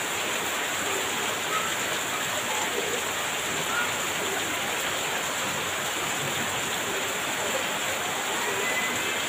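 Heavy rain pouring steadily, an even hiss of water with no let-up.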